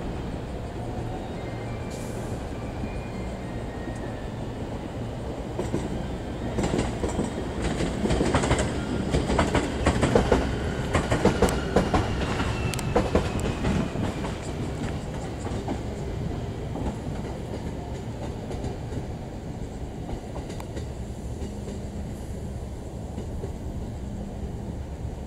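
Electric train running past on the station tracks, its wheels clattering over rail joints in a dense burst of clickety-clack that is loudest about a third of the way in through the middle, with a faint whine gliding downward. A steady low rumble of train equipment lies under it throughout.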